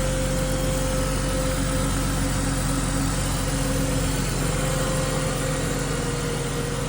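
1999 BMW Z3's engine idling steadily, a minute and a half after a cold start.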